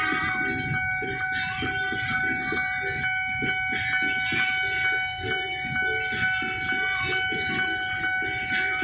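Railway level-crossing warning signal sounding as a steady, unbroken tone over the din of idling motorcycles and traffic waiting at the gate, as a train approaches.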